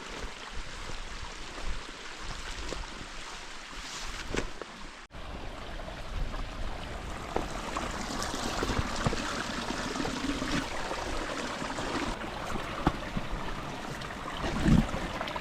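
Creek water running steadily over rocks, with scattered knocks and a heavy low thump near the end. The sound drops out for a moment about five seconds in.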